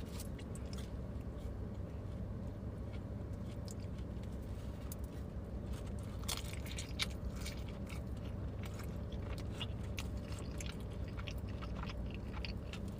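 Close-miked chewing of pizza and garlic bread: wet mouth clicks and scattered crisp crunches, thicker around the middle and near the end, over a steady low hum.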